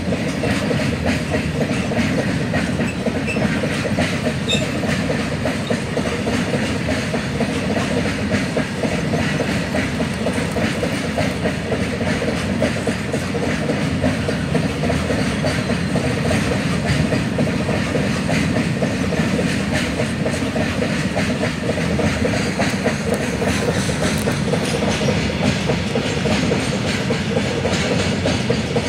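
Freight train of open-top steel wagons rolling past close by: a steady rumble with a dense clatter of steel wheels on the rails.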